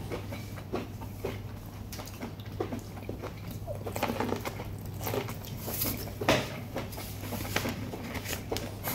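Boiled corn on the cob being bitten and chewed close to the microphone: a string of short, crisp clicks and wet crackles from the kernels, more of them from about four seconds in. A steady low hum runs underneath.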